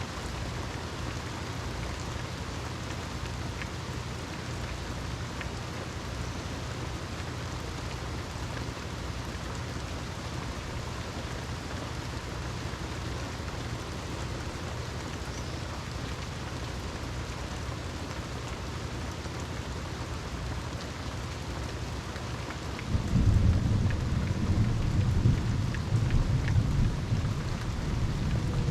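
Steady rain falling, then about three-quarters of the way through a loud roll of thunder that rumbles on to the end.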